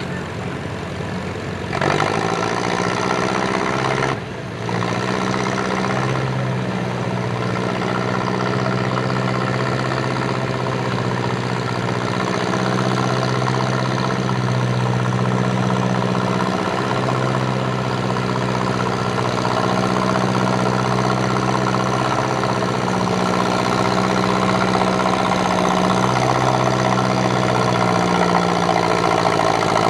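Antique farm tractor engine running steadily under load during a sled pull. It gets louder about two seconds in, drops briefly about four seconds in, then slowly builds toward the end.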